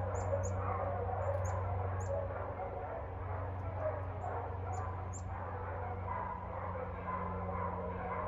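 Dogs barking over a steady low hum, with quick high bird chirps through the first five seconds or so.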